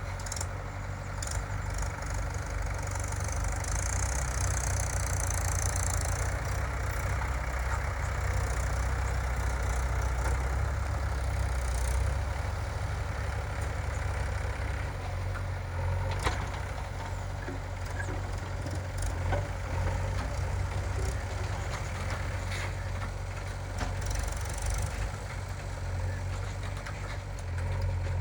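Diesel engine running steadily, with a few sharp knocks.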